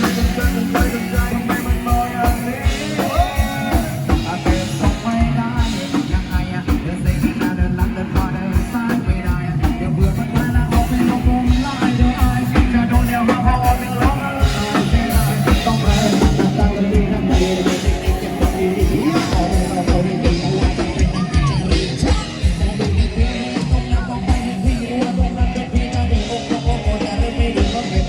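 Thai procession band music with a singer over a fast, steady drum beat.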